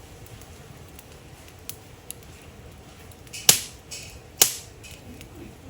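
Two sharp, loud cracks or knocks about a second apart, with a few fainter clicks before them.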